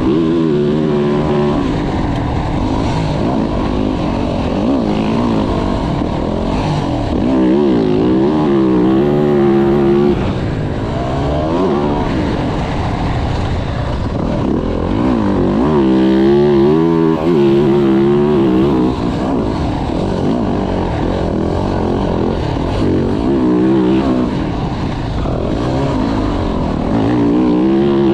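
Yamaha YZ450F's 450 cc single-cylinder four-stroke engine being ridden hard, its pitch rising and falling again and again with each burst of throttle and each gear change.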